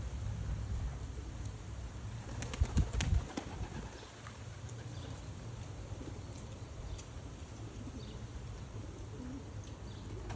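Young racing pigeons cooing and flapping their wings, with a quick run of sharp wing claps a little under three seconds in. A low rumble runs under the first three seconds and then drops away.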